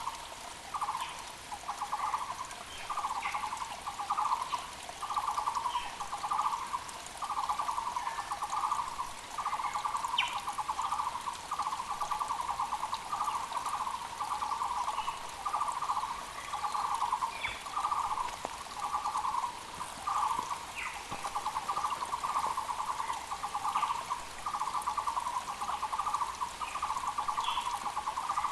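Muller's barbet (Taiwan barbet) calling, a loud hollow note repeated over and over without a break, each note a rapid pulsing, about one or two a second. Other small birds chirp briefly at a higher pitch, over the steady hiss of a mountain creek.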